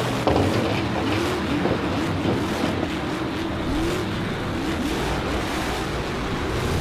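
Racing-car engine sound, revving up and down again and again over a steady rushing noise.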